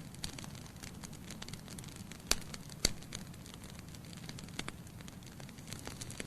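Wood fire burning in a fireplace: a low steady hiss of flames with irregular crackles and pops from the logs, two sharper pops about halfway through.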